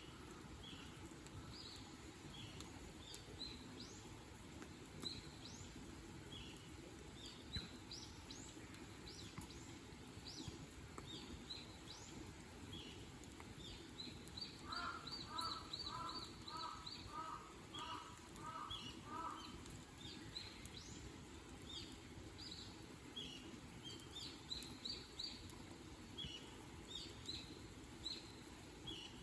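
Small birds chirping on and off, with one bird giving a run of about nine evenly spaced notes, about two a second, around the middle; a steady low background noise runs underneath.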